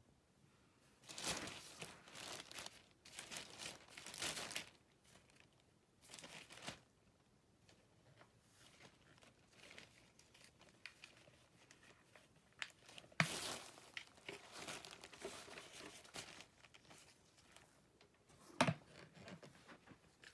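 Intermittent rustling and crinkling, like a plastic bag or loose material being handled, in short bursts with quiet gaps between. There are sharper knocks about 13 seconds in and near the end. No vacuum motor is running.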